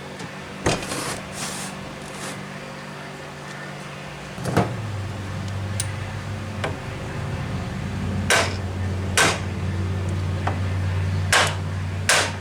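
Several separate sharp metallic knocks and clanks of hand tools and engine parts being handled during a magneto repair, over a steady low hum that grows louder after a knock about four and a half seconds in.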